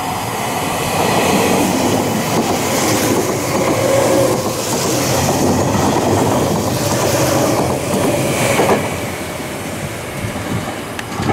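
Meitetsu 1200 series Panorama Super electric train passing close by at a station platform, wheels clacking over the rails. The passing noise swells about a second in and eases off near the end.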